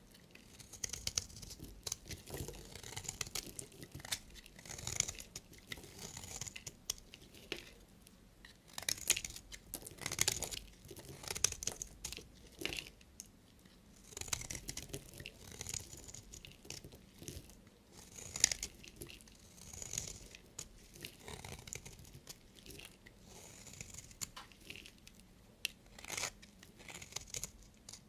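A knife cutting through bars of soap: a string of separate crisp, crunchy scraping strokes with short gaps between them.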